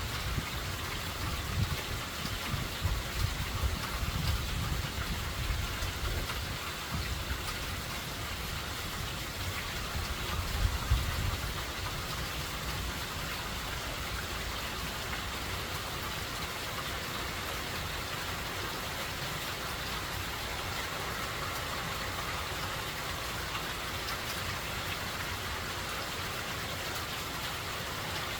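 Steady rain falling in a hurricane-driven downpour. Irregular low rumbles and surges come and go for about the first twelve seconds, then the rain runs evenly.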